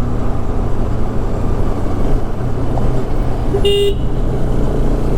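Bajaj Pulsar motorcycle running steadily at riding speed, with wind and road noise. A vehicle horn gives one short toot about three and a half seconds in.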